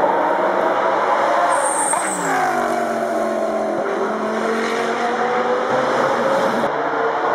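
Audi R8 LMS Ultra GT3 race car's V10 engine at high revs; its pitch falls sharply about two seconds in, then climbs slowly as it pulls.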